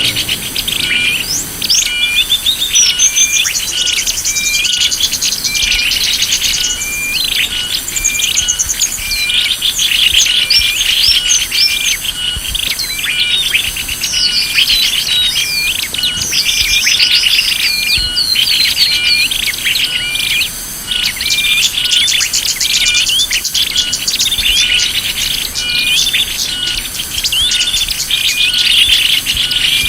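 Bird-lure recording of small songbirds: many chirps, twitters and trills overlap without a break. Underneath, a short faint tone repeats at an even pace, as in a looped lure track.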